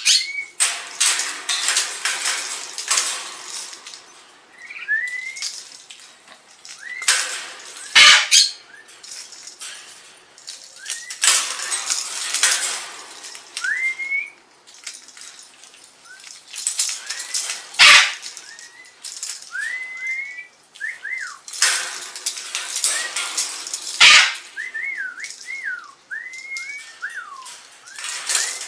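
Pet birds giving short whistles that rise and fall, more of them near the end, between repeated loud bursts of rushing hiss that each last a second or more; three of the bursts end in a sharp click.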